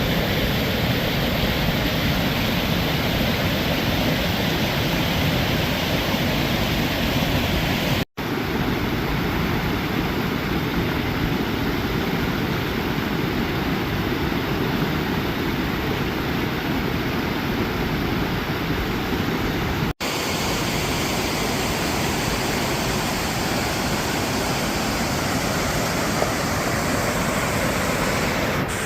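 Steady rush of a waterfall and fast river water, broken by two momentary cuts to silence about a third and two-thirds of the way through.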